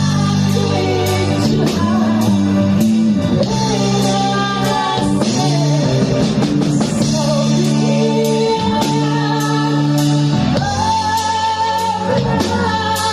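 A band playing a song with singing over guitar and drums, keeping a steady beat.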